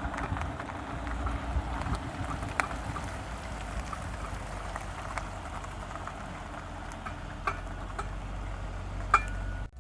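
Steady vehicle running noise with a low hum and scattered light clicks and ticks; it cuts off suddenly near the end.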